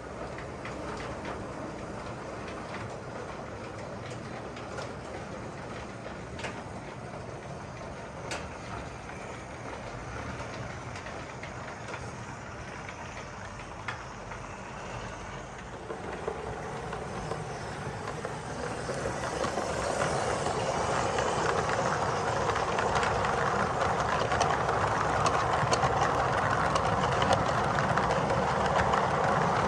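O scale model train running along the track, a steady rumble of wheels on rail with a few faint clicks, growing louder about halfway through as it draws nearer.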